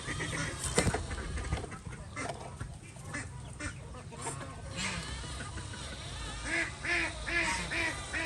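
Ducks quacking, a quick run of about six quacks near the end.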